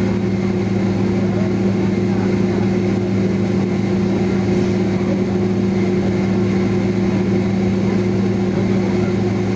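Steady cabin drone of a Boeing 767-300 on the ground with its engines at idle: an even rumble carrying a few steady low hum tones.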